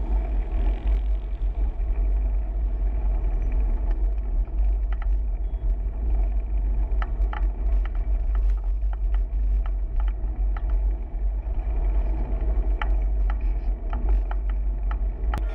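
Wind rumbling on the microphone and road and traffic noise while riding a bicycle along a city street, with scattered light clicks and rattles.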